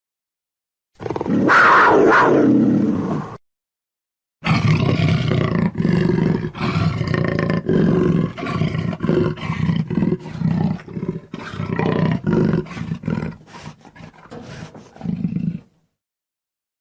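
Jaguar roaring: one call of about two seconds, then after a short pause a long run of repeated low, rough growling calls that ends about a second before the close.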